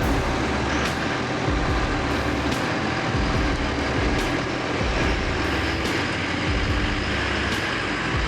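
Heavy truck running steadily, a continuous low engine rumble with road noise.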